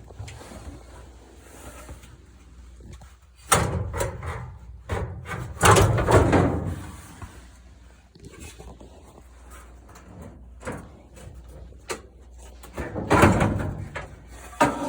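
Parts of a gas dryer's cabinet being handled during disassembly: three loud bursts of clattering and scraping, about 3.5, 6 and 13 seconds in, with quieter handling noise between them.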